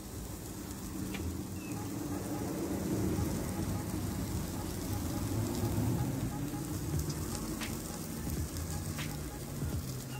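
Marinated chicken sizzling on a wire grill over a charcoal jerk pan, with a few sharp pops of fat and juices hitting the hot coals.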